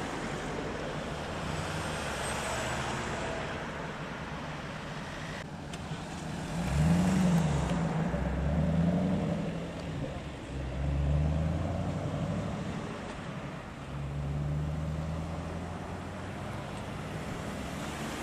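Sports-car engine revving up and down several times as the car pulls away, loudest about seven seconds in, over steady traffic noise.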